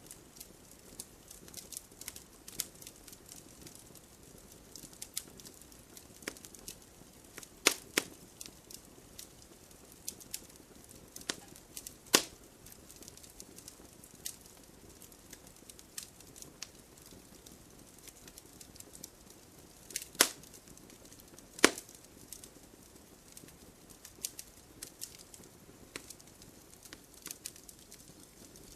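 Wood campfire crackling, with irregular small snaps and a few louder pops over a faint steady hiss.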